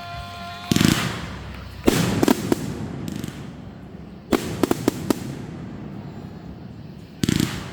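Fireworks going off: four loud bangs about a second, two, four and seven seconds in, the second and third followed by quick crackling pops.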